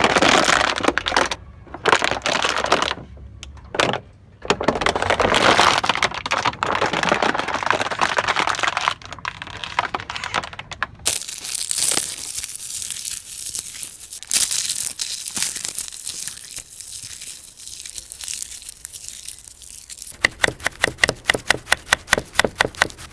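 Balloons being crushed and crunched: dense crackling and crinkling for about the first nine seconds, lighter scattered crackles after that, then a quick run of even clicks, about six a second, near the end.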